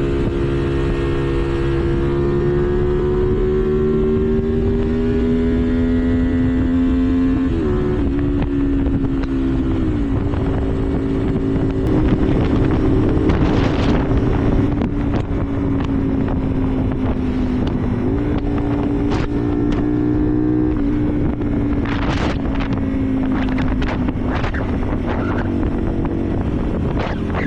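Twin-cylinder engine of a 2005 Honda XL125V Varadero with a BlackWidow aftermarket exhaust, running under way: the note climbs slowly, drops sharply twice at gear changes about eight and ten seconds in, then holds and eases off near the end. Wind buffets the microphone in gusts.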